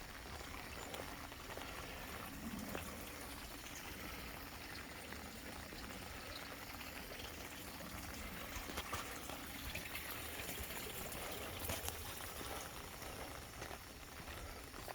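Steady light rain falling, an even hiss with faint scattered ticks of drops.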